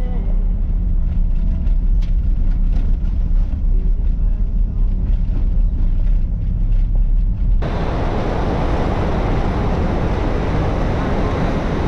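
Steady low rumble of a vehicle driving. About two-thirds of the way through it cuts abruptly to a louder, even rushing noise.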